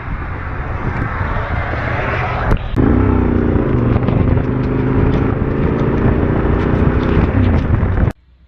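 Motorcycle on the move: loud engine and road noise, then after an abrupt change a steady engine tone that dips in pitch once. It cuts off suddenly near the end.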